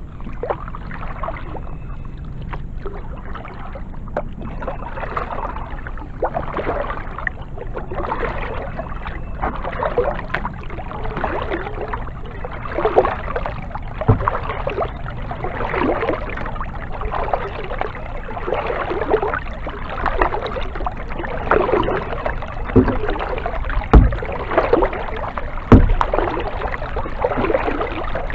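Kayak paddle strokes: the blades dipping and pulling through the water in a steady rhythm, a splashy swish about every second and a half. A few sharp knocks stand out, one midway and two near the end.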